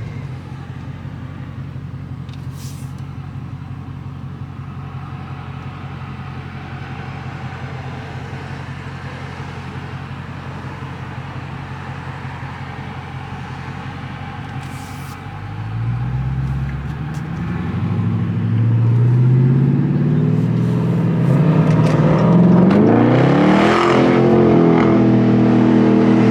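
Car engine running with a steady low drone, then from a little past halfway accelerating hard, its pitch rising in several climbing sweeps and the sound getting louder.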